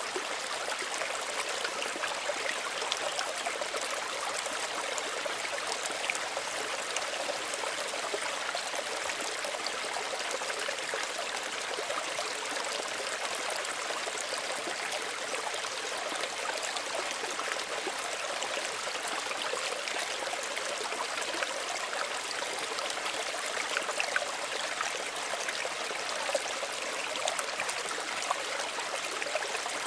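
Small stream running and trickling steadily, with a busy patter of small splashes and no let-up.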